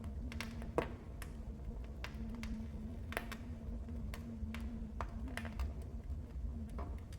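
Wood fire in a fireplace crackling: irregular sharp pops and snaps, one louder pop about a second in, over a low steady rumble of the flames.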